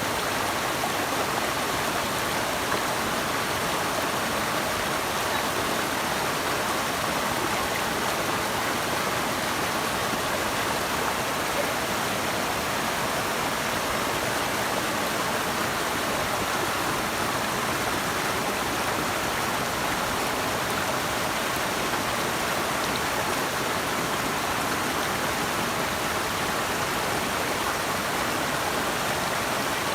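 Rushing water flowing steadily, an even, unbroken rush with no pauses or separate events.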